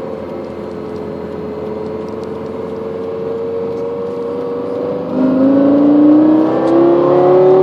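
Lexus LFA's 4.8-litre V10, heard from inside the cabin, running at a steady, slightly falling note while cruising; about five seconds in the throttle opens and it gets louder, its pitch climbing as the car accelerates.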